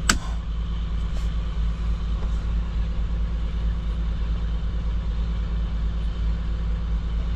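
Semi-truck diesel engine idling steadily, its compressor feeding air to a dead truck's brake system, with one sharp click right at the start.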